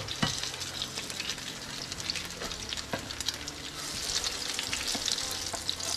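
Potato chapli kababs frying in oil in a nonstick pan: a steady crackling sizzle, broken by a few clicks and scrapes of the spatula as the kababs are turned over. The sizzle grows louder about four seconds in.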